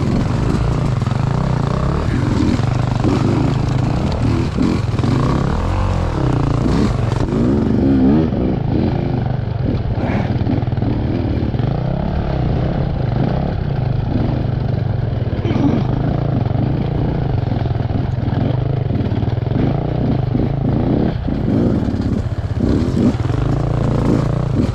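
Enduro motorcycle engine running at fairly steady revs while riding over rough ground, with rattling from the bike as it bumps along.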